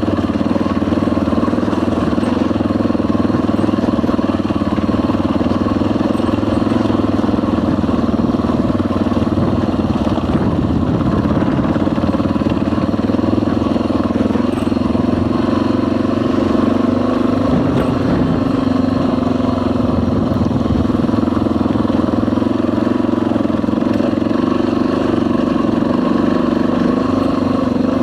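Dual-sport motorcycle engine running steadily while riding, its note dipping and rising briefly a little past halfway.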